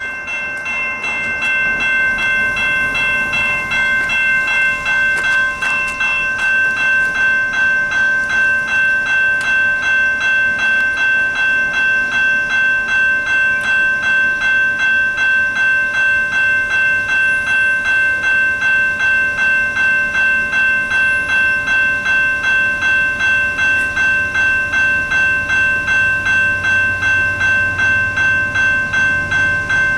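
A railway bell ringing steadily, about two to three strokes a second, as CP train 528 approaches; the low rumble of the train grows near the end.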